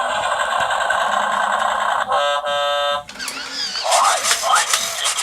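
Matchbox Stinky the Garbage Truck toy playing its electronic sound effects through a small, thin-sounding speaker: a noisy engine-like rumble for about two seconds, a horn honk for about a second, then warbling voice-like sounds.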